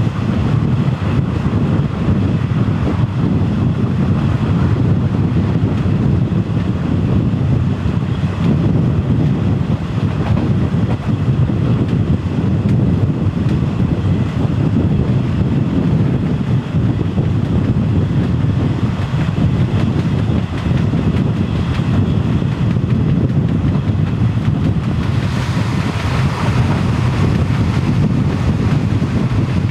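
Steady running noise of a moving Taiwan Railway passenger train heard from an open carriage window, with wind buffeting the microphone. The rush grows a little brighter near the end.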